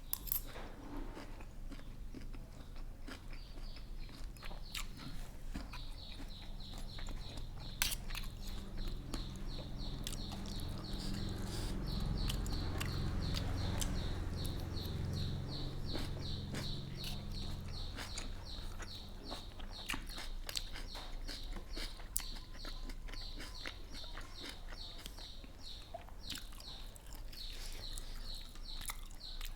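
Close-up chewing and crunching of a mouthful of spicy seafood papaya salad with raw vegetables, in scattered short clicks. Behind it a rapid, evenly pulsed high chirping runs from a few seconds in, and a low rumble swells up and fades in the middle.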